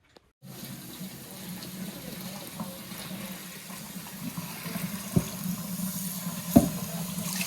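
Water running steadily from a kitchen tap into a sink, starting abruptly about half a second in. Two sharp knocks come about five seconds in and a second and a half later, the second one louder.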